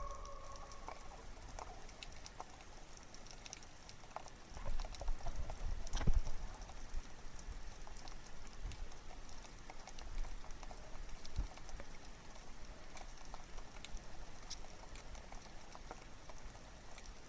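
Faint irregular clicking and crackling, with a single louder knock about six seconds in.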